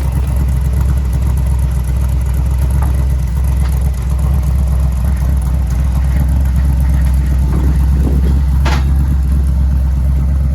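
Off-road race truck running at a steady pace, a loud continuous low rumble of engine and drivetrain, with a few sharp rattles or knocks, the strongest late on.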